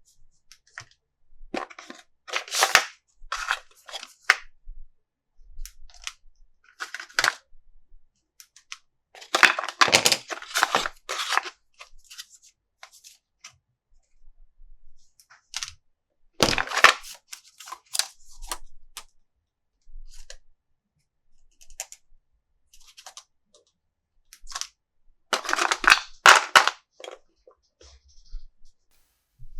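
Crackling and rustling of plastic packaging and toy parts being handled during an unboxing, in about five bursts of a second or two with quiet gaps between.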